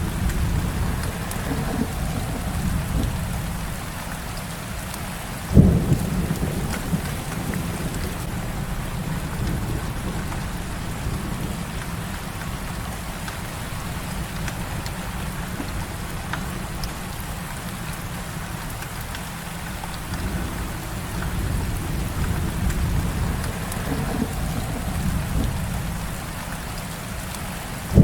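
Heavy rain falling steadily, with low rolling thunder that swells and fades. A sudden sharp thunderclap comes about five and a half seconds in, trailing off into rumble.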